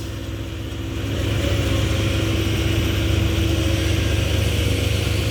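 Heavy dump truck's diesel engine running with a deep, steady rumble that gets louder about a second in and then holds.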